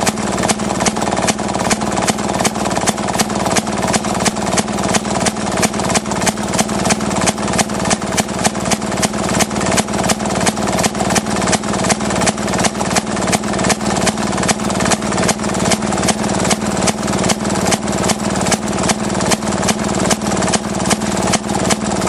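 Maytag Model 31 two-stroke gasoline engine running steadily with an even, rapid popping exhaust beat, driving a wringer washer through its wash cycle.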